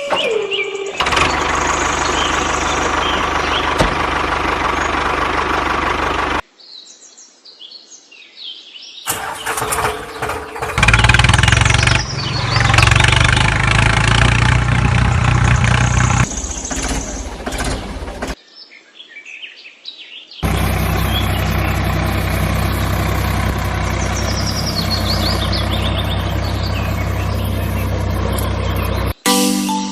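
Engine running in three separate stretches, each starting and stopping abruptly, with the loudest and busiest one in the middle; birds chirp faintly in the gaps between them.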